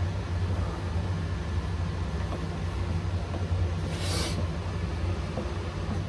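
Steady low rumble, with a brief hiss about four seconds in.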